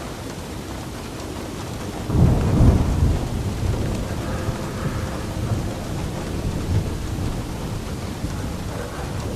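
Steady rain with a roll of thunder that breaks in about two seconds in, loudest just after, and rumbles slowly away.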